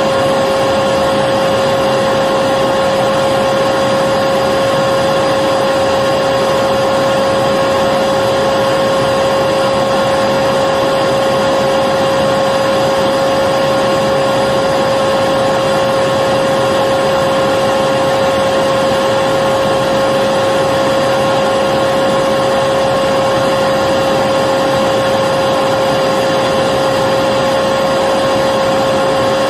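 Electric vacuum cleaner running steadily: an even rushing of air with a constant motor whine, unchanging throughout.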